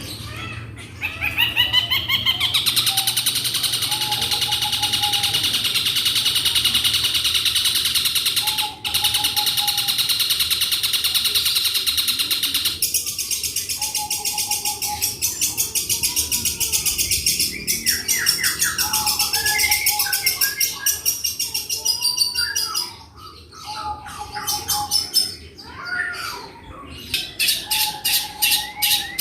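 Long-tailed shrike (cendet) singing, with a long, fast, high trilling run that goes on for about twelve seconds, then shorter varied phrases, and rapid trills again near the end. The song is a string of mimicked calls of other birds.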